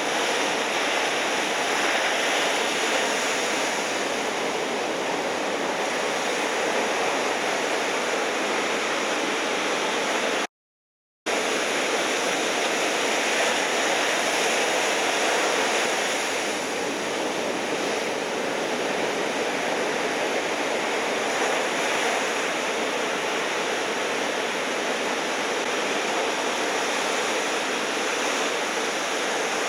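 Steady rush of ocean surf, a dense even noise with no distinct wave breaks standing out. It drops out to silence for under a second about ten and a half seconds in, then resumes.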